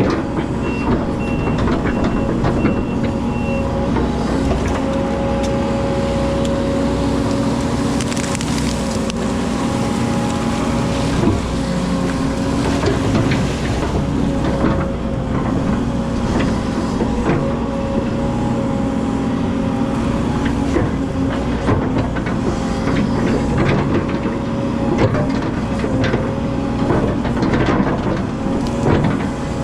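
Hydraulic excavator's diesel engine running steadily under load, with scattered knocks throughout. A short run of about six warning beeps sounds in the first few seconds.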